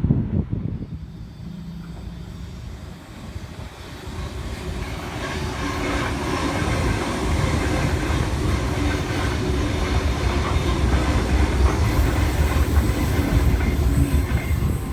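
A Sydney Trains Tangara double-deck electric train, two sets coupled, running through the station platform without stopping. It grows louder over the first few seconds, then rumbles past steadily on its wheels and motors.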